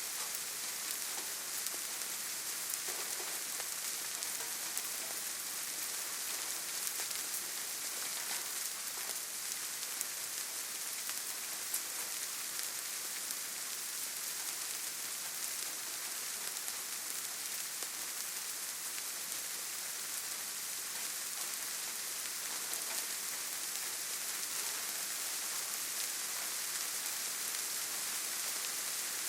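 Steady rain falling on leaves and the forest floor, a constant hiss with many small drop ticks scattered through it.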